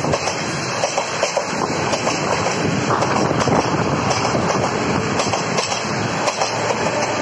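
Freight train of high-sided open wagons rolling past, the wheels clacking repeatedly over rail joints over a steady rumble. Near the end a diesel locomotive at the rear of the train passes, adding a low steady engine drone.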